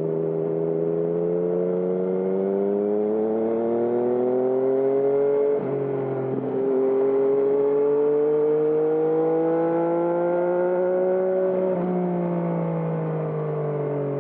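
Yamaha MT-09's three-cylinder engine through a Termignoni exhaust, pulling up through the revs under throttle. About halfway through there is a quick upshift: the pitch drops and then climbs again. Near the end the throttle is eased off and the note falls away.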